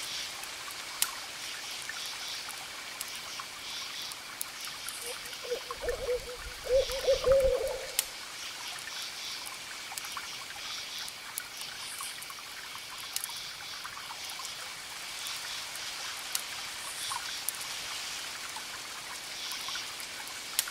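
An owl hooting several times in a row, beginning about five seconds in, over a crackling wood fire whose sharp pops and clicks come at irregular intervals.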